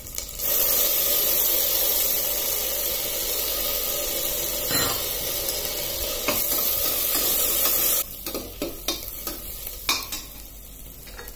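Sliced onions sizzling loudly in hot oil and ghee in an open stainless steel pressure cooker as green chillies and mint leaves are added. The sizzle drops sharply about eight seconds in, and a steel spoon then clicks and scrapes against the pan as the mixture is stirred.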